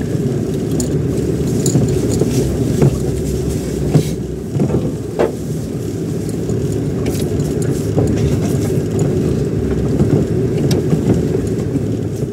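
Car cabin noise while driving on a rough, bumpy road: a steady low rumble of engine and tyres with scattered knocks and rattles as the car jolts.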